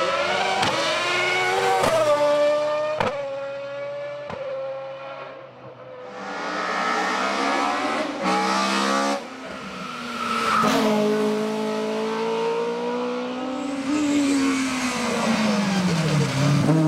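Hillclimb race car engines driven flat out, revving high and shifting up with sharp cracks, several cars passing one after another. Near the end one engine's pitch falls away as it goes past.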